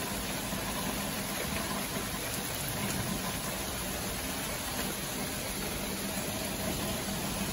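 A car engine running steadily, with a low hum under an even hiss.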